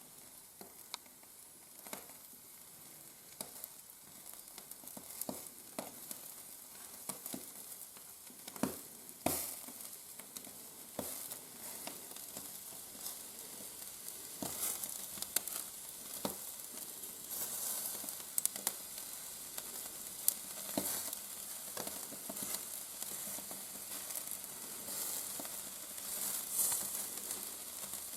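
Shashlik on skewers sizzling over a wood fire in a fireplace. A steady hiss builds up, and sharp crackles and pops are scattered through it.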